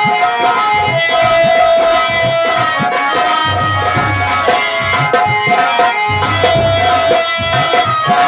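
Nautanki opening instrumental music played live: steady drum strokes with deep bass hits under a held, sustained melody line.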